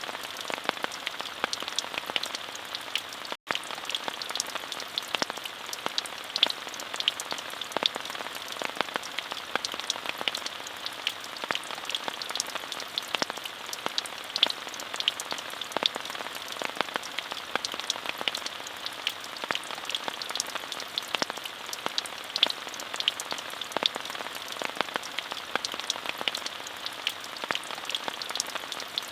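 Steady rain falling on surfaces, a constant hiss dotted with many sharp individual drop hits. About three and a half seconds in, the sound cuts out for a split second.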